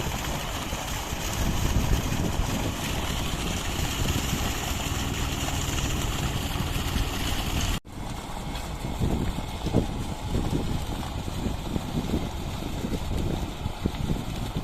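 Wind buffeting the microphone over a steady rushing noise, dropping out for an instant about eight seconds in.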